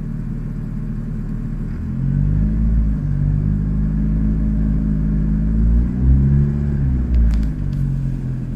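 A car engine runs with its drive belts turning. About two seconds in the engine note steps up and holds, wavers briefly, then drops back near the end, with a few sharp clicks along the way. The owner questions whether this is an abnormal noise from the air-conditioner V-belt.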